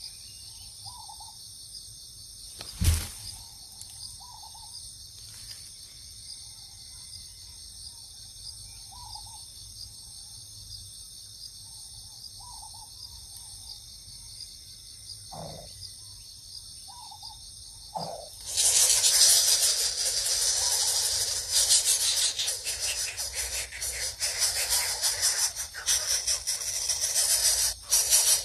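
Steady chorus of crickets or similar insects, with a soft short call repeating every second or two and one sharp knock about three seconds in. About two-thirds of the way through, a much louder, ongoing rattling hiss takes over.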